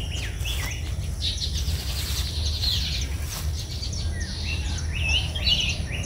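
Wild birds chirping and calling, many short rising and falling notes overlapping, over a steady low background rumble.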